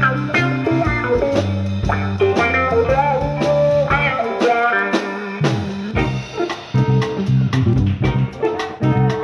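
A live funk-soul band playing, with guitar lines over bass and a steady drum beat. The bass drops out for about a second midway, then comes back in with the drums.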